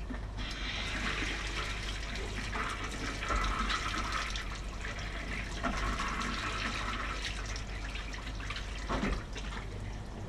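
Rushing, splashing water-like noise that swells and eases, over a steady low hum.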